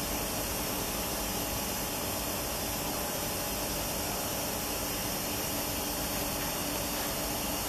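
Steady hiss and hum from a passenger train standing at the platform, unchanging throughout, with a few faint constant tones in it and no wheel clicks.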